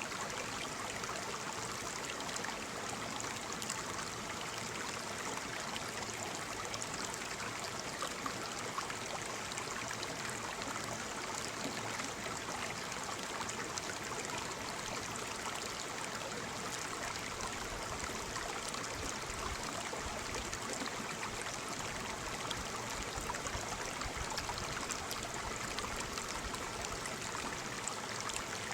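Waterfall: water falling and splashing in a steady, even rush with fine spattering.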